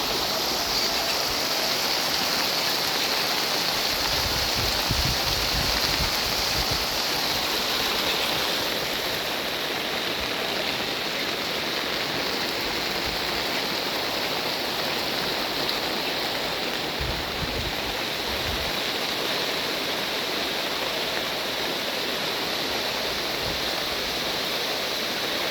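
Steady, even rush of heavy rainwater, with two spells of low rumble in the middle.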